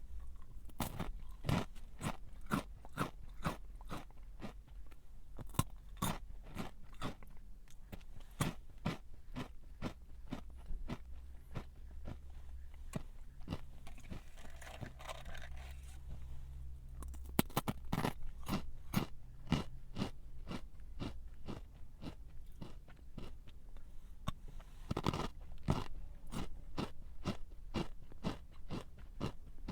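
A person chewing a crunchy snack close to the microphone, with crisp crunches several times a second. The crunching is densest a little past halfway and again near the end.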